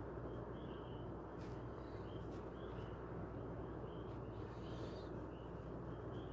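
A steady low machine hum, with short high chirps repeating about twice a second over it.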